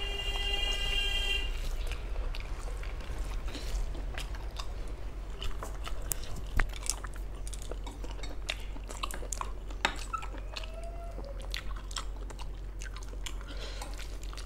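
Close-up hand-eating sounds: wet chewing and mouth clicks, with fingers squishing and mixing rice and curry on a steel plate. A few sharper clicks stand out about six and a half and ten seconds in.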